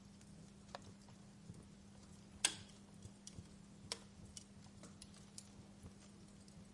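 Wood fire burning in a fireplace, crackling softly: scattered small crackles, with a louder pop about two and a half seconds in and another about four seconds in, over a faint steady low hum.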